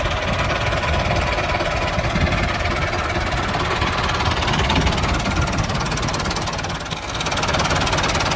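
A motor running steadily with a fast rattle, dipping briefly about seven seconds in.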